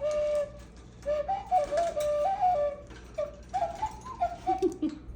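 A pet parrot whistling a tune: a run of short clear notes stepping up and down in pitch.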